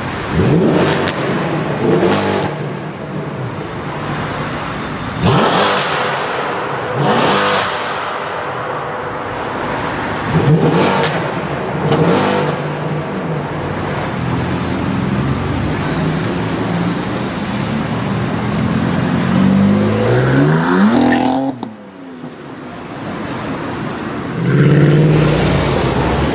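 Performance car engines accelerating hard and revving, rising in pitch again and again with sharp cracks between, as of gear changes. About three quarters of the way in one engine's pitch falls away and it quietens briefly, then another loud acceleration starts near the end.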